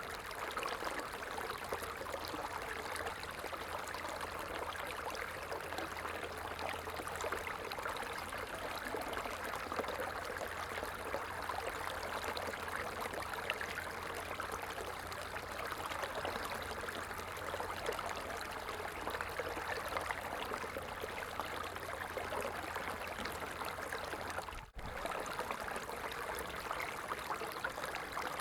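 Stream water flowing and trickling steadily over rocks, an even rushing and babbling, with a brief dropout about three-quarters of the way in.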